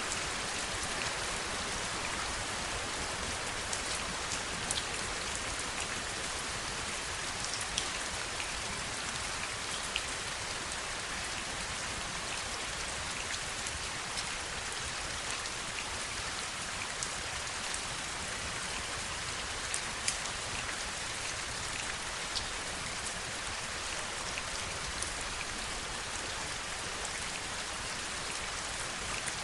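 Steady heavy rain falling, a constant hiss of rainfall with scattered sharper drop ticks.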